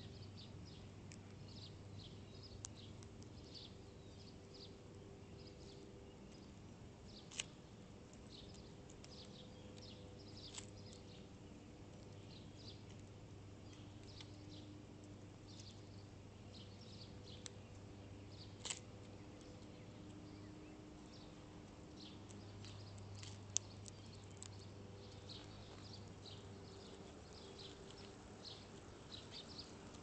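Faint, frequent short bird chirps through the whole stretch, with a few sharp clicks, the loudest about two-thirds of the way in, over a steady low hum.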